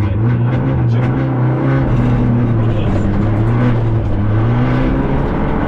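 Turbocharged four-cylinder engine of a Fiat Egea 1.4 T-Jet rally car, heard from inside the cabin, running loud at fairly steady revs with only slight rises and falls in pitch.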